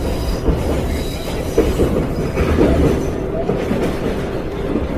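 Subway train running on the rails: a steady, loud rumble with a thin high wheel squeal during the first second or two.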